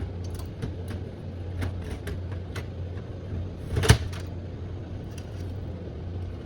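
Light clicks and taps of a hard disk drive being handled and fitted into a desktop computer case, with one sharp knock about four seconds in, over a steady low hum.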